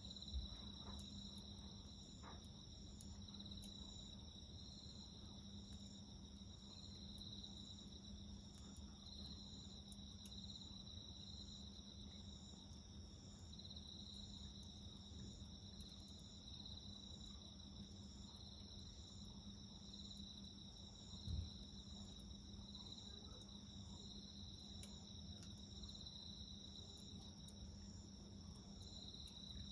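Quiet chorus of crickets and other insects singing steadily at several overlapping pitches, some in an even pulsing rhythm, with a faint low hum beneath. Sparse faint ticks of a campfire crackling, and a dull thump about 21 seconds in.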